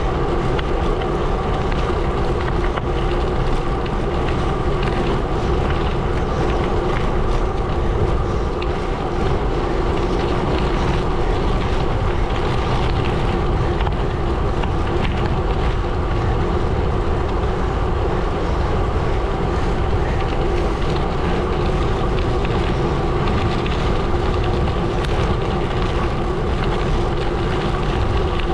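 Gravel bike rolling steadily along a gravel road: a continuous crunch and rumble from the tyres with a steady hum, and wind on the microphone.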